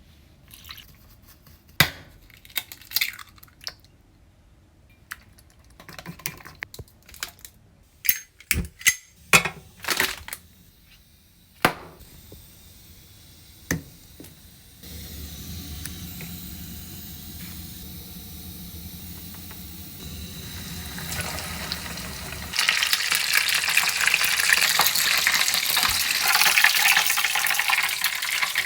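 Scattered clinks and knocks of cookware being handled, then a gas camping stove burner running steadily with a low rumble. About two-thirds in, a loud dense crackling sizzle starts: croquettes deep-frying in hot oil.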